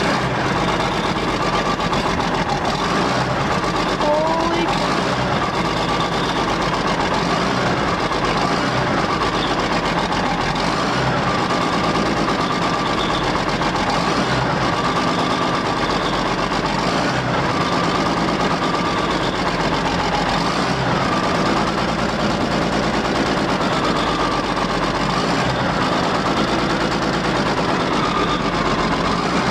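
Diesel engine idling steadily just after a cold start.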